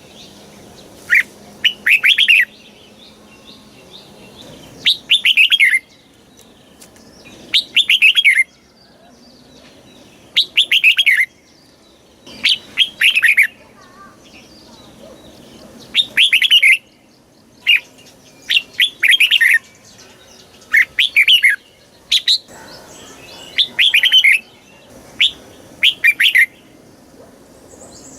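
Red-whiskered bulbul singing: short, bright phrases of a few quick, falling notes, repeated every two to three seconds.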